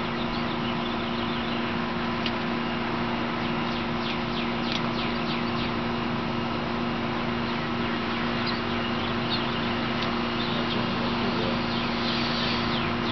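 Small birds chirping in short runs of quick high notes, several times, over a steady low hum and a constant outdoor background hiss.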